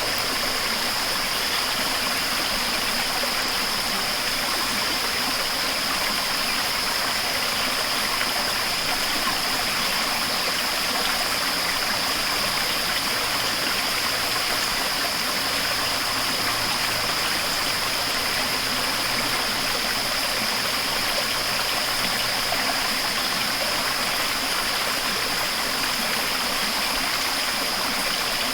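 Steady rushing water, like a stream or cascade, with an even hiss and a constant high-pitched note running over it.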